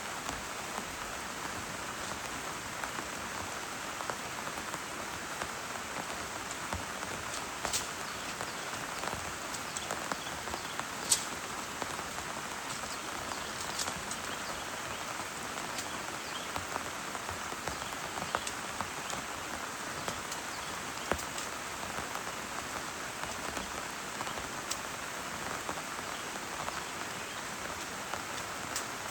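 Heavy rain falling steadily, with single louder drops ticking now and then; the sharpest comes about eleven seconds in.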